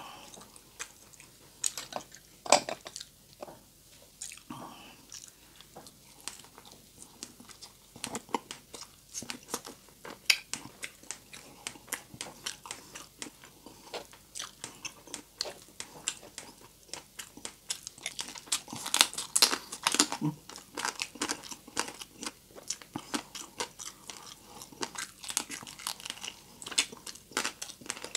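Close-up crunching and chewing of crispy deep-fried pork, a quick run of crackly bites and chews that is busiest about two-thirds of the way through.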